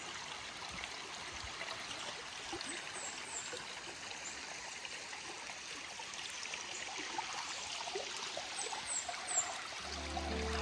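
Small forest creek trickling and babbling steadily over its bed. A few faint, short high chirps are heard.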